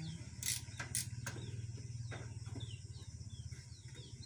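A few sharp clicks of hand tools against engine metal in the first second and a half, over a steady low hum, with small birds chirping faintly near the end.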